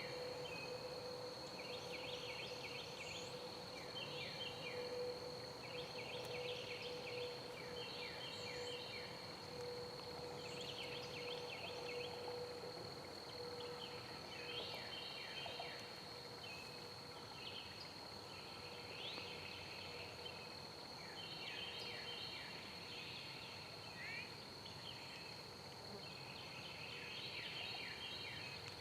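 Outdoor ambience of small animals calling: many short chirping trills that repeat every second or two over a steady high-pitched whine.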